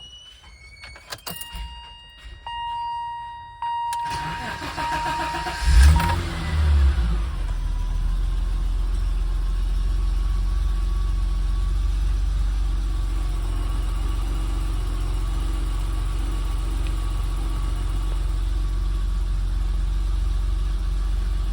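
Cold start of a 1993 BMW 325i E30's 2.5-litre straight-six: a few clicks and steady electronic beeps as the key is turned, the starter cranks for about two seconds, and the engine catches about six seconds in with a brief rev flare. It then settles into a steady, smooth idle with no hunting.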